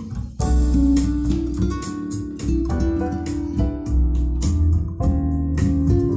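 Music with a strong bass line and regular drum hits, played loud through wooden speaker cabinets driven by a TDA2004 class B amplifier, in a sound check; the treble is fairly sharp and the bass full. The music drops out briefly just after the start.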